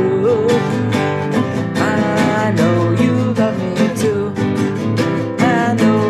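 Music: a song led by strummed acoustic guitar, with a melody line bending in pitch above it.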